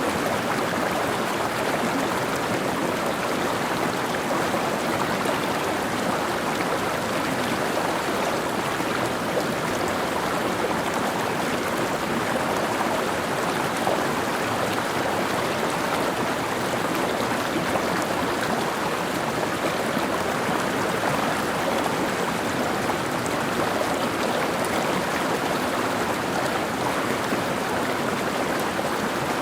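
Mountain stream flowing and babbling over rocks, a steady rush of water.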